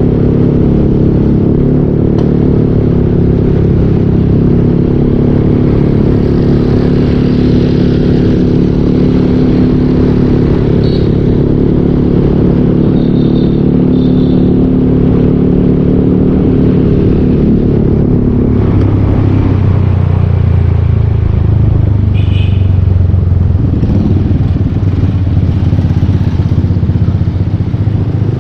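Yamaha Aerox 155 scooter's single-cylinder engine running through a full Yoshimura exhaust while riding, holding a steady note, then dropping to a lower, deeper note about two-thirds of the way through as it eases off. A few short high beeps sound over it.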